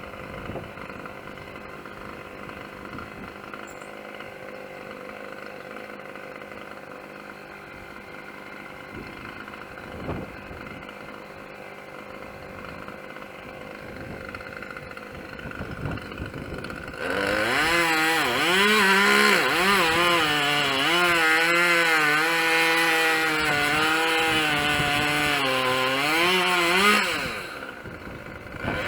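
Chainsaw idling, then opened up to full throttle a little past halfway through and run hard for about ten seconds, its pitch dipping and recovering as it bogs under cutting load, before dropping back to idle near the end.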